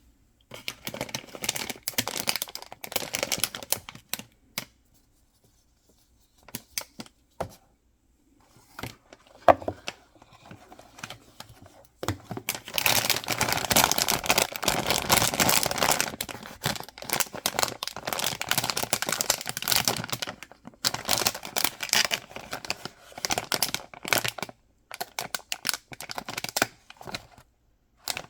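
Packaging being handled and opened: crinkling and tearing of wrappers in irregular stretches, loudest and longest about halfway through, with scattered clicks and a short pause in between.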